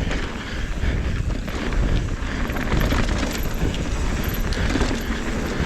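Mountain bike running fast down a rough trail: tyres over dirt and rock, with a constant rattle and clatter of the bike over bumps and low wind rumble on the microphone.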